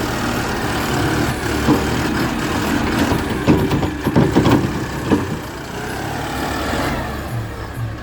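Loader's diesel engine running steadily, with a cluster of knocks and thuds in the middle, typical of loading a tractor trolley.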